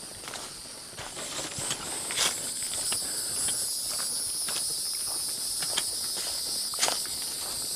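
A hiker's footsteps on a trail, irregular light steps, over a steady high-pitched chorus of insects.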